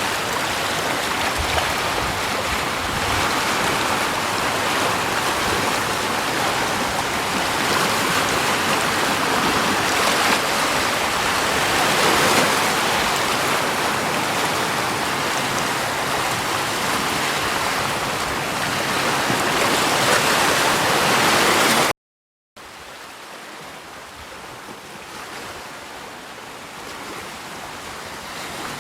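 Steady rushing of water. Near the end it cuts off abruptly, and after a brief gap a quieter rushing sound comes in and slowly grows louder.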